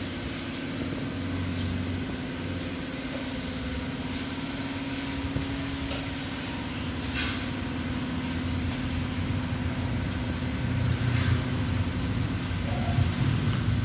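A machine running with a steady low hum and rumble, growing somewhat louder over the last few seconds.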